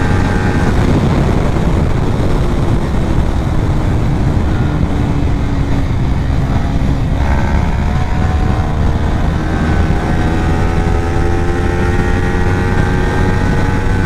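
Kawasaki Ninja 400's parallel-twin engine under way, with heavy wind rush. The engine note sinks at first; about seven seconds in it picks up and climbs steadily as the bike accelerates.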